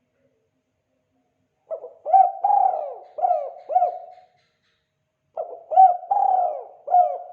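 Spotted dove (tekukur) cooing its 'kuk 2' call: two phrases of about five soft, low coos each, the first beginning about two seconds in and the second near the end.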